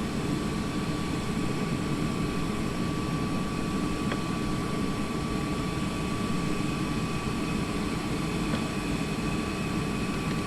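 Jet aircraft running steadily on the ground: a constant high whine over an even low rumble.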